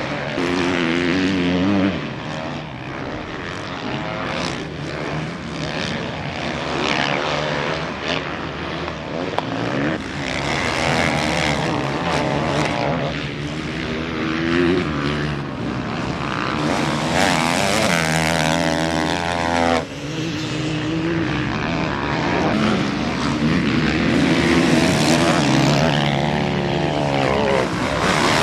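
Motocross motorcycles racing, several engines revving hard and dropping back as riders shift gears and throttle on and off, overlapping as bikes pass. One engine climbs in a long rising rev and cuts off sharply about two-thirds of the way in.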